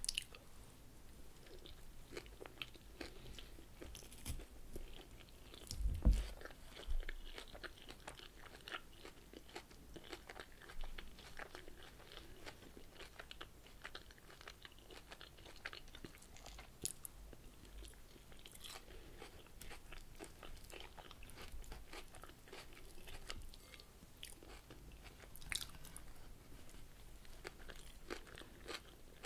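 Close-miked chewing and crunching of a raw salad of lettuce and radicchio leaves, with many short crisp crunches throughout. One louder low thump comes about six seconds in.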